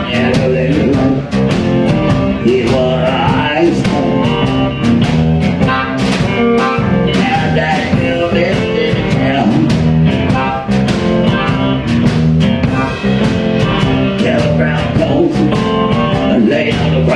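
Blues band music, with guitar over a steady drum beat.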